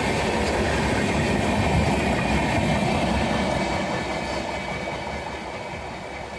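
A train running past on the rails, a dense rumble of wheels and carriages that fades steadily over the last couple of seconds as it moves away.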